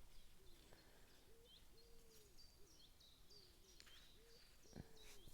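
Faint wild birdsong: a string of short low curved calls repeating every half second or so, with small high chirps over them.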